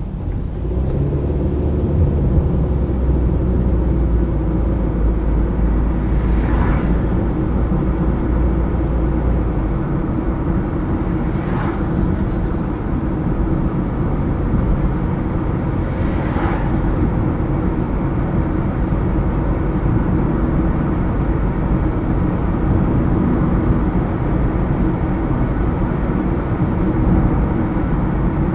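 Car driving along a highway: steady engine and tyre-on-road noise, with a brief whoosh three times, about five seconds apart.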